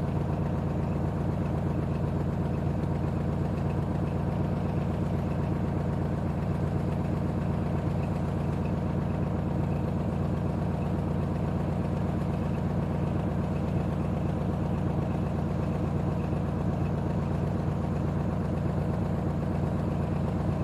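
Old car engine idling steadily, an even low rumble with rapid regular firing pulses.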